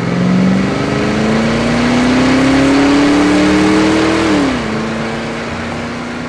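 Car engine sound effect revving up, its pitch climbing steadily for about four seconds, then dropping quickly and holding level as it slowly fades.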